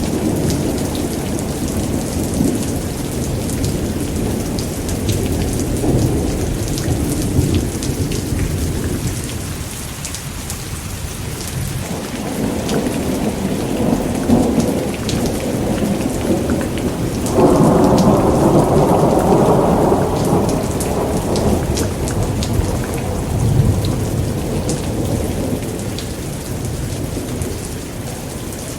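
Thunderstorm: steady heavy rain with fine drop ticks, under continuous rolling thunder. A louder roll of thunder comes in a little past halfway and lasts a few seconds.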